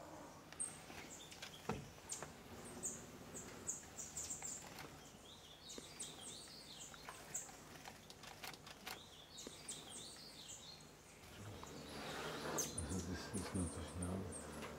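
Small forest birds chirping and twittering: many short, high chirps, with quick warbling calls in the middle. The sound grows louder and fuller near the end.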